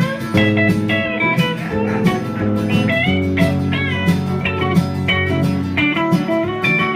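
Instrumental break of a country song played on guitars: chords held underneath while a picked lead line runs over them, with a few bent notes partway through.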